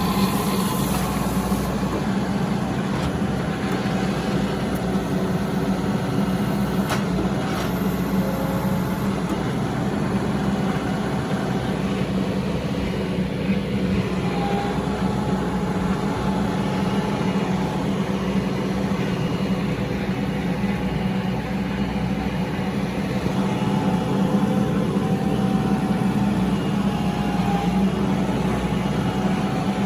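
Kioti RX7320 tractor's diesel engine running steadily.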